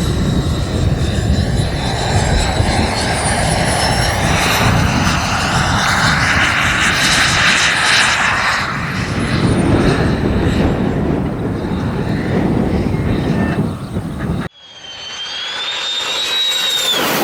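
Turbine of a jet-powered RC model plane passing, a loud rush with a whine that rises and then falls. It cuts off abruptly near the end and a second pass begins with another whine that climbs and drops.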